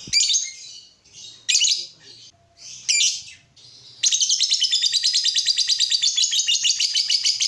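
Lovebirds calling while mating: three short shrill squawks, then from about four seconds in a fast, unbroken run of high chattering chirps.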